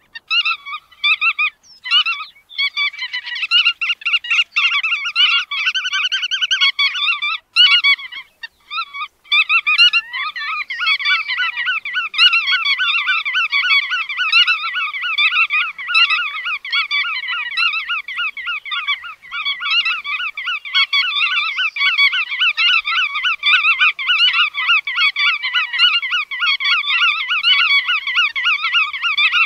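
Bar-tailed godwit calling: rapid strings of short, repeated call notes, stopping and starting several times in the first ten seconds or so, then running on without a break.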